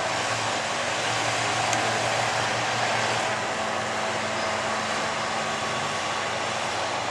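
Engine running steadily under a loud, even wash of noise, with the noise easing slightly about three seconds in.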